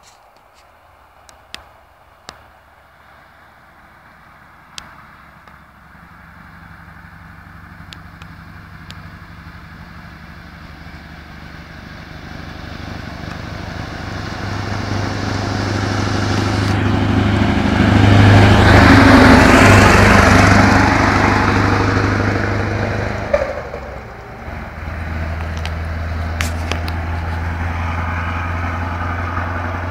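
Scania 144-530's 14-litre V8 diesel running and drawing closer, growing steadily louder to a peak about two-thirds of the way through. Its level drops briefly, then it runs on steady and strong.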